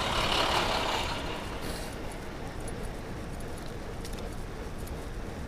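Riding noise on a bicycle-mounted camera: steady low wind rumble on the microphone with light rattling clicks. A rush of noise swells in the first second and fades by about two seconds in.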